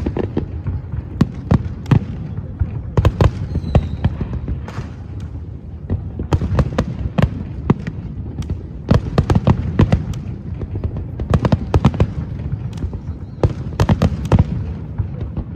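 Aerial fireworks going off in rapid, irregular succession: many sharp cracks and bangs over a continuous low rumble.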